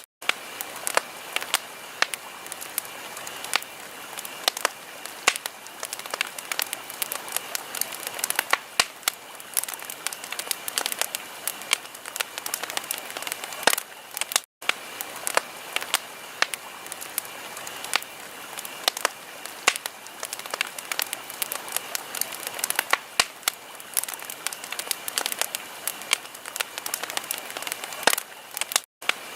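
Wood fire crackling, with dense, irregular pops over a steady hiss. The sound cuts out for an instant about halfway through and again near the end.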